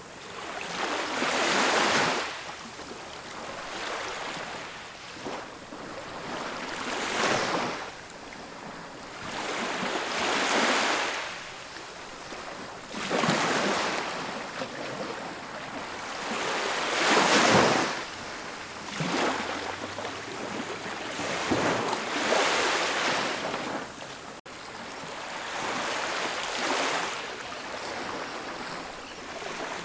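Ocean waves breaking and washing up on a beach, a new surge rising and falling every three to four seconds.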